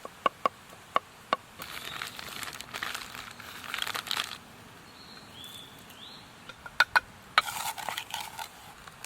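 Several sharp light clinks, then packaging crinkling and rustling as cooking ingredients are handled. A second set of clinks and crinkling comes near the end, with two brief rising chirps in between.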